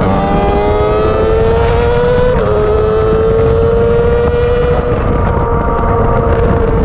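Yamaha R6 inline-four race engine at high revs on a track lap, heard from on board: it upshifts right at the start and again about two and a half seconds in, the pitch climbing slowly after each shift and then holding steady. Wind rush on the microphone runs under the engine.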